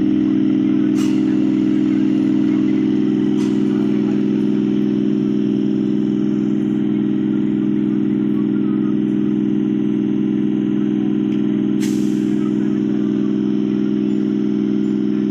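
Locomotive engine idling, a steady low drone that holds unchanged throughout, with three brief sharp clicks about a second, three and a half seconds and twelve seconds in.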